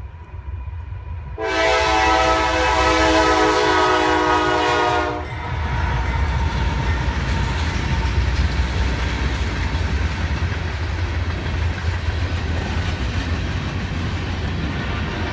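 A train's horn sounds one long blast of about four seconds, starting a second or so in and cutting off sharply. After it, the train's cars roll past with a steady rumble of wheels on the rails.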